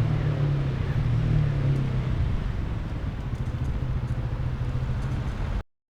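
A motor vehicle's engine running close by: a steady low hum that drifts slightly lower in pitch, then cuts off suddenly near the end.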